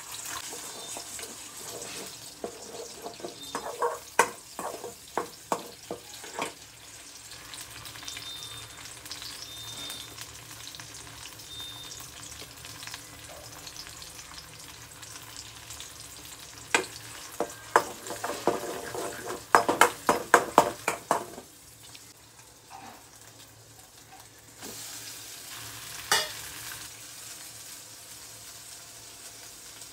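Egg frying in oil in a metal kadai, sizzling steadily, with a steel spoon scraping and knocking against the pan in two spells of stirring and one sharp knock near the end. The sizzle grows louder for the last few seconds.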